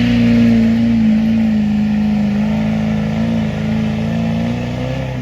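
A pulling vehicle's engine running hard at high revs under load during a pull, its pitch held steady after a slight sag about a second in, then dropping away at the very end.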